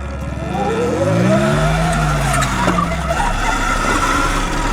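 Dirt bike engine revving: its pitch climbs about a second in, then falls away over the next two seconds, with the engine running on underneath.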